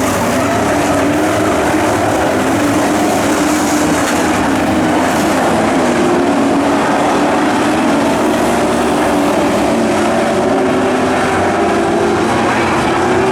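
Pro racing truck engines running at speed in a dirt-track race: a loud, steady drone whose pitch wavers slightly.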